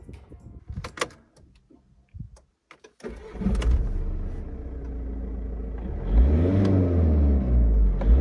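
Volkswagen Eos 2.0 TDI four-cylinder turbodiesel starting after a few clicks: it cranks briefly and catches about three seconds in, then idles. It is revved up and back down once about six seconds in, and a second rev begins at the end.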